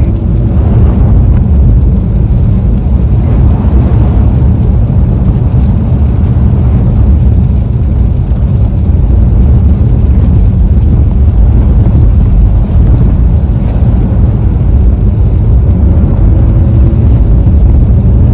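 Steady loud low rumble of a car driving, heard inside the cabin: tyres running through slush on a wet, icy road with the engine underneath.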